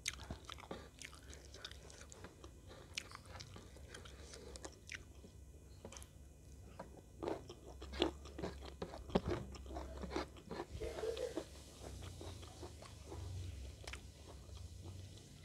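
Close-up eating sounds of chicken in sweet soy sauce being eaten by hand: chewing and biting with scattered wet clicks and smacks, busiest and loudest around the middle.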